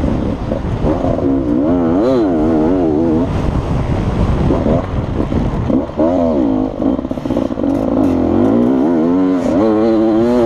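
Beta RR 300 two-stroke enduro motorcycle engine running hard under load, its pitch rising and falling again and again as the throttle is worked over the bumpy dirt track, with rough rumble and clatter underneath.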